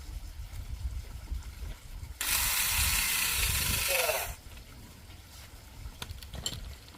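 A loud, even rush of noise that starts abruptly a couple of seconds in, lasts about two seconds and cuts off suddenly, over an uneven low rumble, followed by a few faint clicks.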